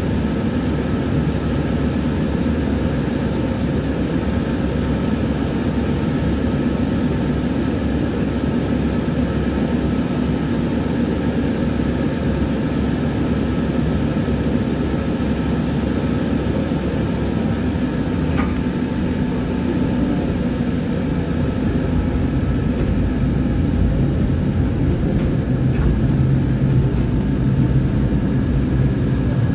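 Tram in motion: a steady low rumble of wheels on rail and running gear, with faint steady whining tones. A single sharp click about two-thirds of the way through.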